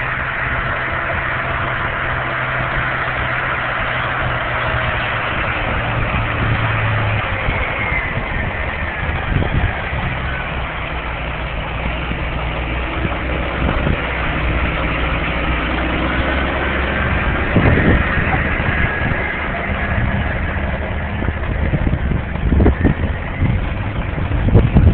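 Miller fertilizer spreader truck running steadily, with a faint high whine above the engine note. The engine pitch drops about eight to ten seconds in, and gusty noise comes in near the end.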